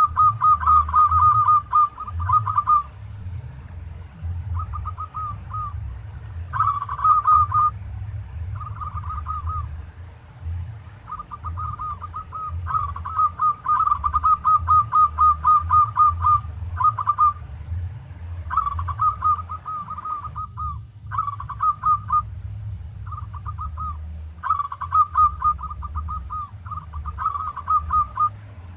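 Zebra dove (perkutut) cooing: phrases of fast, rattling coos repeated with short gaps, over a steady low hum.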